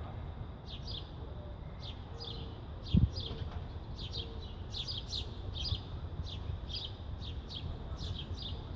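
A small songbird chirping over and over: short, high, downward-slurred chirps, about two or three a second. A single low thump comes about three seconds in.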